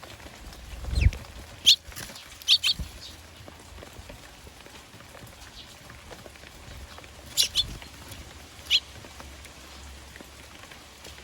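Eurasian tree sparrows giving short sharp chirps, a few in quick succession and then a few more several seconds later, over a steady patter of rain. A low thump comes near the start.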